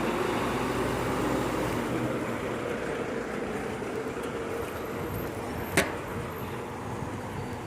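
Volvo FE 300 recycling truck's diesel engine running and slowly getting quieter, with a single sharp bang about six seconds in.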